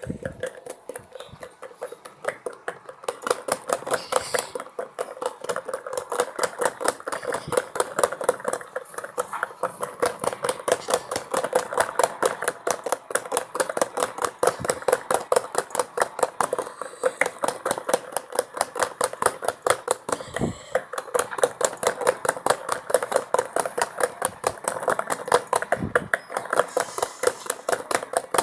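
Miniature LG Turbo Drum washing machine running its wash cycle, with a fast, even rattle from its small motor and drum. The rattle is faint at first and grows louder about three seconds in.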